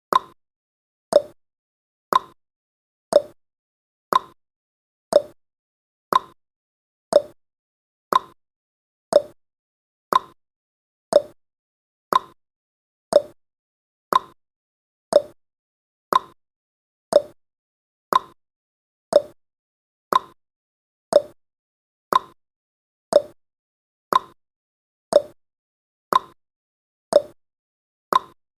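Clock tick-tock sound effect of a countdown timer: one sharp tick each second, alternating between a higher tick and a lower tock.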